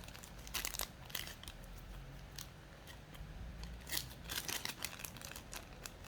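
Plastic zip-lock bag crinkling and rustling as slime is put into it, a scattered string of small crackles and clicks.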